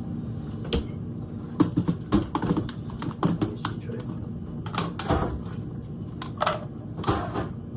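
Kitchen clatter: an irregular string of light clicks and knocks as items are handled and set down, over a low steady hum.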